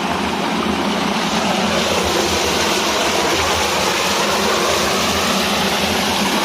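Waterfall's water rushing down, a loud, steady, even noise.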